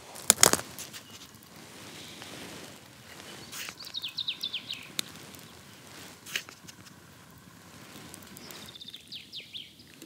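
A small bird singing a short song of quick falling notes, twice, about five seconds apart, over faint outdoor background noise, with a few sharp clicks.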